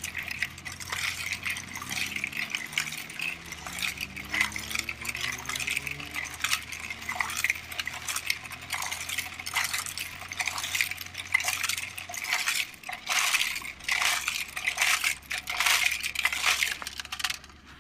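Toy cement mixer's load of wet gravelly mix rattling and clinking steadily out of the drum, many small stones tumbling over one another, over a low steady hum.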